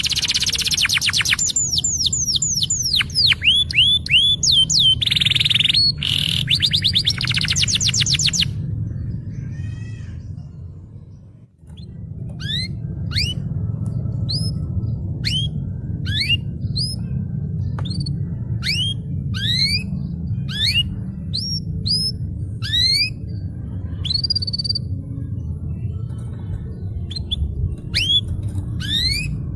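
Domestic canary singing: fast rolling trills of quick falling notes for the first eight seconds, then after a short fade a string of separate sweeping whistled notes, over a steady low background hum.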